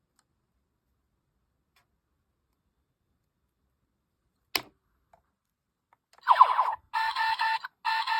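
A single sharp click, then about a second and a half later a homemade Gochizou toy's small speaker plays a pitched electronic sound effect, cut by two brief gaps.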